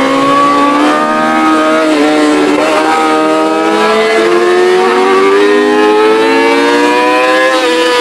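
Yamaha R6 inline-four sport-bike engine with a straight-pipe exhaust running at high revs. Its pitch steps up about halfway through, then climbs steadily under acceleration and falls away near the end.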